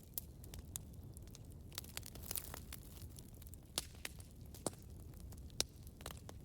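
Wood fire burning with a steady low rumble and frequent sharp crackles and pops, three louder pops in the second half.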